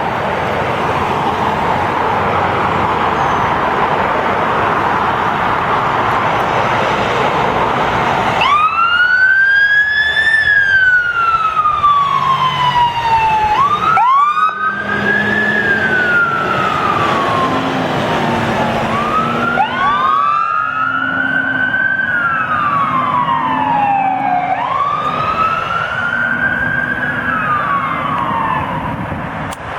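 Fire truck responding. First comes a loud rush of heavy-vehicle noise. About eight seconds in, a siren starts wailing in about four long cycles, each one rising quickly and sliding slowly back down.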